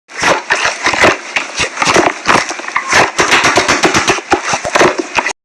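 Slime being squished and worked by hand, a dense run of crackling, clicking pops that stops abruptly near the end.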